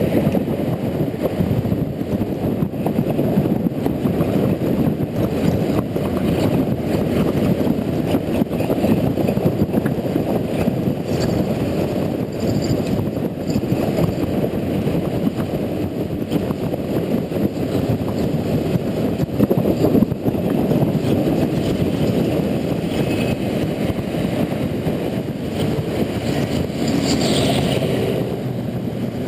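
Steady, muffled wind and road rumble from riding a Honda Integra NC750D motorcycle, its 745 cc parallel-twin engine running under it. Near the end the engine's steady note comes through more clearly.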